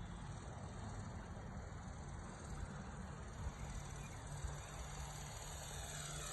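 Ikarus Eco 8 electric RC helicopter running in flight, a steady hum from its motor and rotors, with the pitch shifting near the end.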